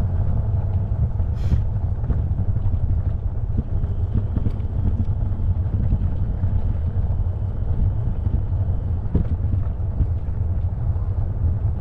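Steady low rumble of wind buffeting the microphone while riding an e-bike, with a faint high steady tone for a few seconds in the middle and a few small clicks.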